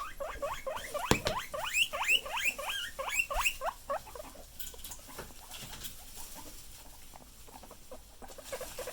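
Guinea pigs wheeking: a fast run of rising squeals, several a second, loudest in the first few seconds and fading after that. A sharp knock sounds about a second in.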